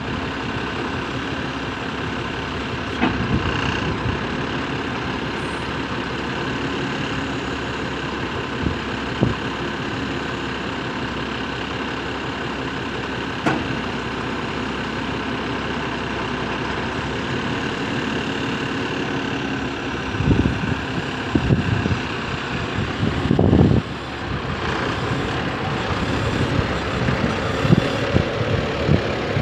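Renault Midlum 220 dCi truck's diesel engine idling steadily, with a few sharp knocks. Irregular thumps come in over the last third.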